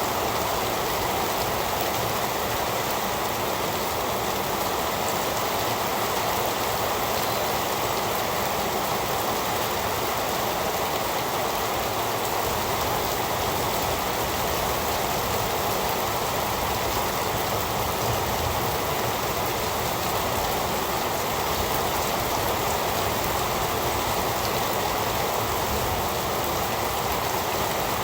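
Heavy rain falling steadily, an even, constant hiss with no thunder or breaks.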